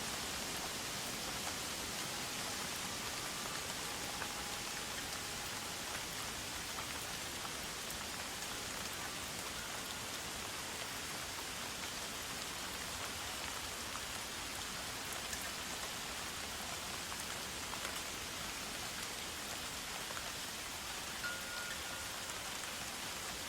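Steady, even hiss of forest ambience like rain falling on foliage, with a few faint short high tones scattered through it.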